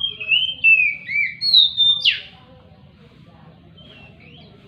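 Oriental magpie-robin singing: a run of loud whistled phrases sliding up and down for about two seconds, ending in a sharp downward sweep, then a short, softer phrase near the end.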